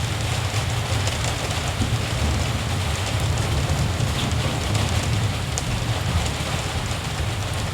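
Steady rain falling, with a continuous low rumble underneath and scattered sharp drop ticks.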